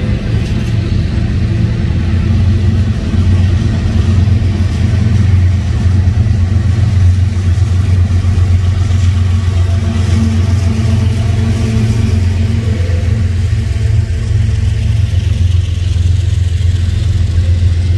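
Double-stack container train rolling past, with a Union Pacific diesel locomotive working as a mid-train helper going by close: a loud, steady low engine drone over the rumble of the cars, a little louder midway.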